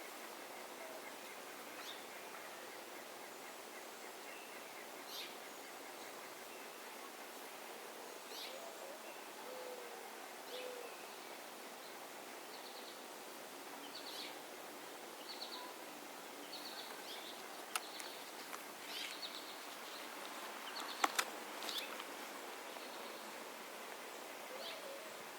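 Songbirds chirping and calling around a bird feeder: scattered short high chirps and quick runs of repeated notes, a few soft low notes, and two sharp clicks in the second half, over a steady faint hiss.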